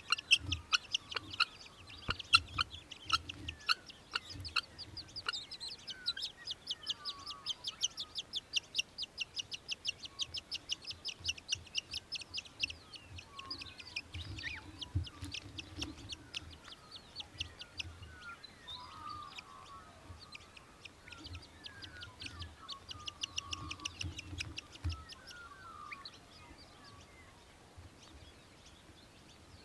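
Australian Hobby (Little Falcon) calling: a rapid chatter of sharp, high repeated notes, several a second, that breaks off about halfway through and returns briefly later.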